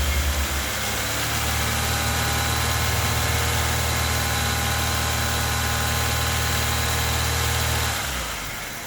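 LPG-converted car engine revving up as the accelerator is pressed, holding steady at raised revs, then dropping back toward idle about eight seconds in. The engine shakes badly at idle, a fault the mechanic puts down to the injectors or their current supply.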